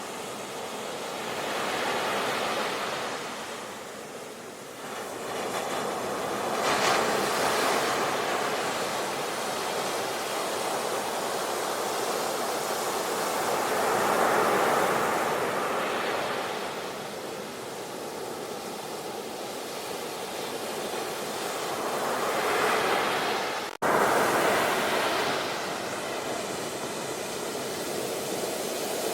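Ocean surf breaking and washing on a shore, a steady rush that swells and ebbs every few seconds, with a split-second dropout near the end.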